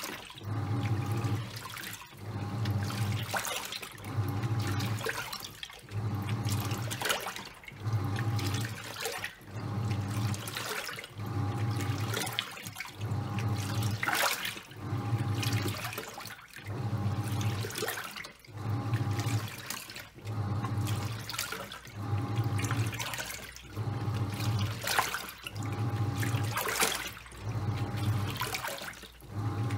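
Top-loading washing machine agitating a load of towels: the pulsator motor hums in a regular beat, about once every second and a half or so, with water sloshing and swishing in the tub.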